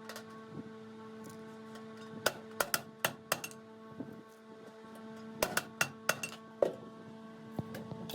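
Sharp metallic taps and clinks on sheet steel, in two quick runs of four or five strikes with a few single knocks between, over a steady machine hum.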